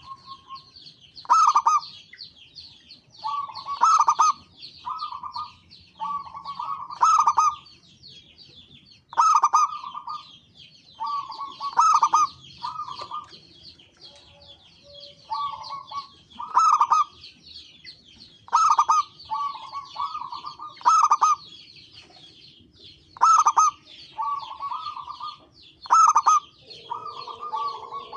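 Zebra dove (perkutut) cooing in loud, repeated staccato phrases every one to two seconds. Continuous high chirping runs under it.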